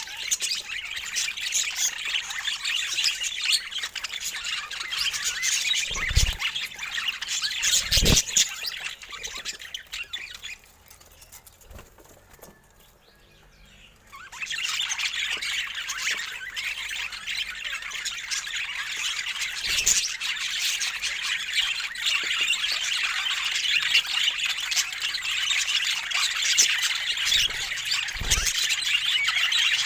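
Budgerigars chattering and chirping in a dense, continuous warble that breaks off for about three seconds near the middle, then starts up again. A few dull thumps come through it.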